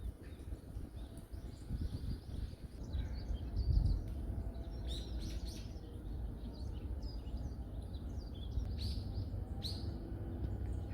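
Small forest birds chirping: scattered short calls, busiest about five seconds in and again near the end, over a steady low rumble.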